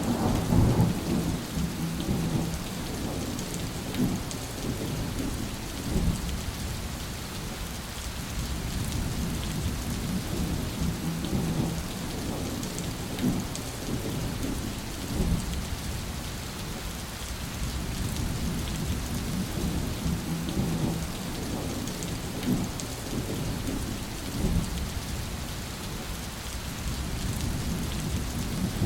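Steady heavy rain falling, with low thunder rumbling through it; the rumble is heaviest at the start and swells again near the end.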